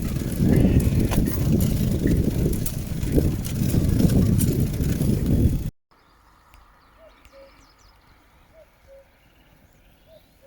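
Bicycle ride noise: a heavy wind rumble on the microphone with scattered rattles and knocks from the bike. It cuts off abruptly about six seconds in to a quiet stretch with a few faint high-pitched calls.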